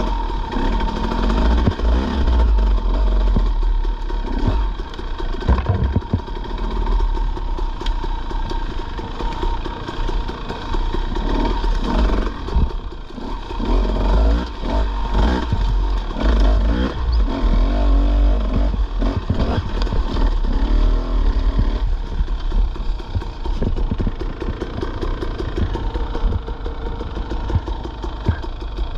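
Dirt bike engine revving up and easing off while being ridden over rough ground, with frequent knocks and clatter and a heavy low rumble.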